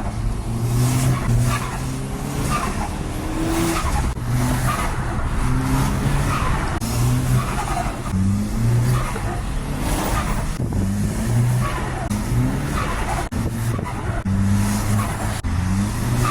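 Audi S3's turbocharged four-cylinder, tuned to APR Stage 2, revved in repeated short throttle blips about once a second. Each blip is followed by a falling, fluttering turbo chirp as the throttle closes, which is compressor flutter from the turbo.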